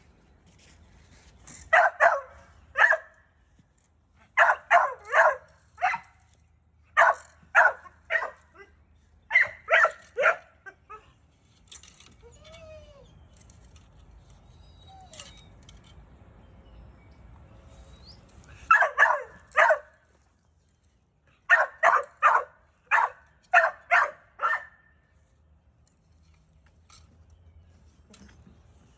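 A dog barking in short runs of three to six quick barks, with pauses of a few seconds between runs and a longer lull in the middle.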